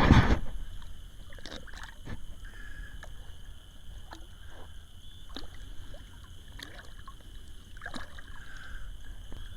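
Steady low outdoor rumble of wind and river water, with a louder burst at the start and a few faint clicks and taps from handling gear.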